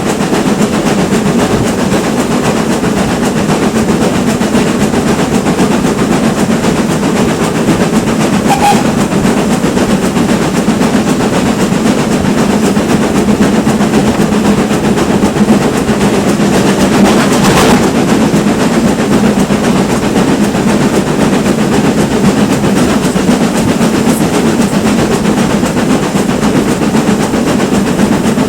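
Steam train running steadily on the line: a loud, constant rumble and rattle of wheels on rails, with one brief sharp knock about seventeen seconds in. The train is hauled by a GWR Manor-class 4-6-0 locomotive.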